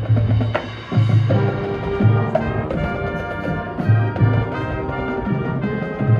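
High school marching band playing, brass carrying sustained chords over drum hits. Low brass notes recur about once a second.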